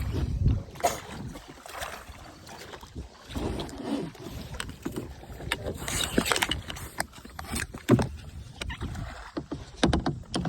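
Water splashing and sloshing around kayaks, with irregular sharp splashes and knocks. Wind rumbles on the microphone at the start.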